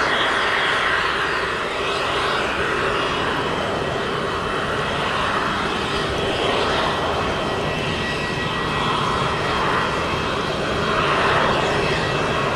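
Embraer 175 airliner's twin turbofan engines at takeoff power, a steady loud rushing noise with a thin high whine held throughout.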